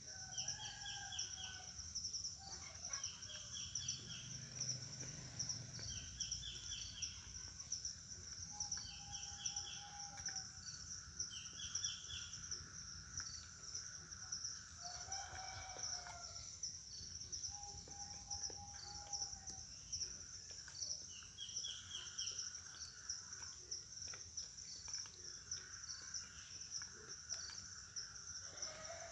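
Zebra doves calling in a yard, with a few drawn-out mid-pitched notes. Another bird repeats a quick chirping phrase every couple of seconds, over a steady, pulsing high hiss.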